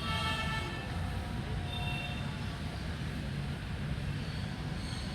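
Steady low rumble of city traffic, with a held note of several even tones over the first second and faint high bird chirps near the end.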